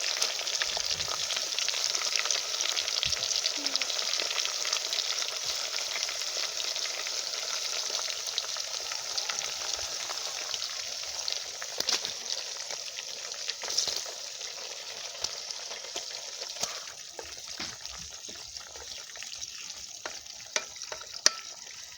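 Sliced plantain frying in hot oil: a steady sizzle that slowly grows quieter, with occasional sharp crackles.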